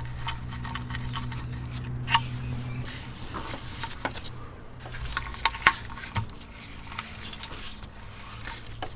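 Scattered clicks and light metallic knocks of hand tools being handled during an oil change, over a faint steady hum.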